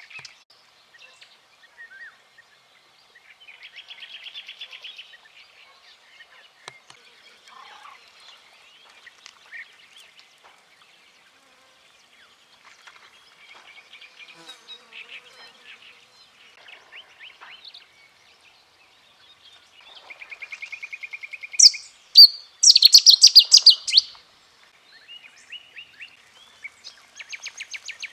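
Several small birds singing and calling in short phrases, with a steady trill about twenty seconds in, followed by a loud burst of rapid, bright song.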